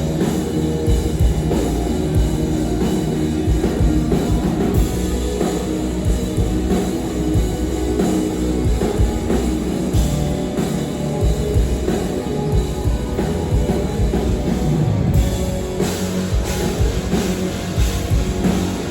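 Live rock band playing loud and continuously, with a full drum kit and electric guitar.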